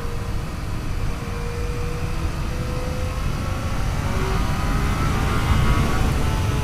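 Yamaha FJ-09's three-cylinder engine running at speed, buried under heavy wind rush on the microphone; the engine note climbs in the second half.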